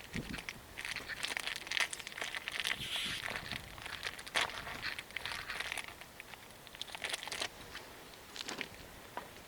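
Paper or plastic wrapping being crumpled and handled, in irregular crinkling rustles for several seconds, with a short final rustle near the end.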